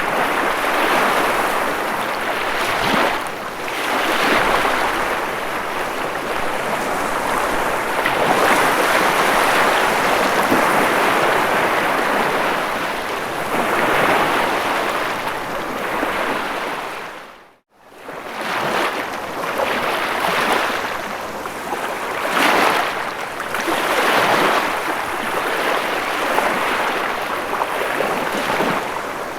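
Ocean waves washing onto shore in continuous surges that swell and ebb every few seconds. A little over halfway through the sound fades out to silence for a moment and comes straight back.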